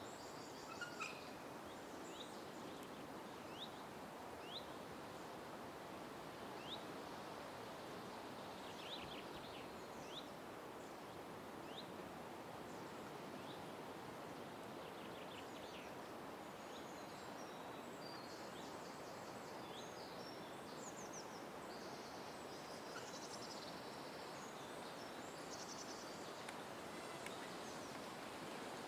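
Birds calling faintly: short high chirps scattered throughout, with bursts of rapid high trills in the later part, over a steady background noise.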